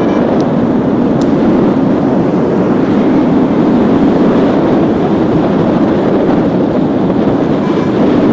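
Strong wind rushing over the microphone during a paraglider flight: a loud, steady, deep rushing noise.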